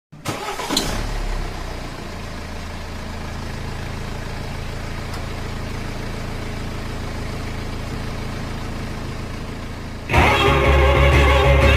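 A vehicle engine idling steadily, with a louder passage in the first second or so and a sharp jump in loudness about ten seconds in.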